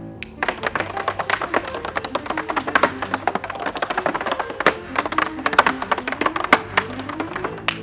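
Two pairs of tap shoes, wooden heels and toes fitted with metal taps, striking the stage in fast, crisp rhythms over an accompanying music track.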